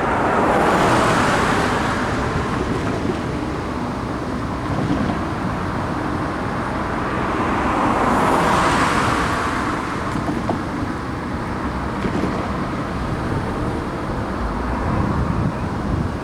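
Road traffic with cars passing by, loudest about a second in and again around eight seconds in.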